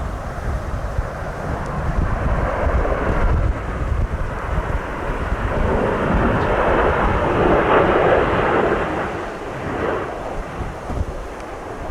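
Jet airliner passing overhead on its landing approach: the engine roar swells to a peak about two-thirds of the way through, then fades. Strong gusty wind buffets the microphone throughout.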